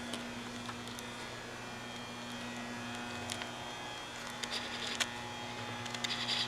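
Quiet room tone: a steady electrical hum with a few faint clicks and light rustles.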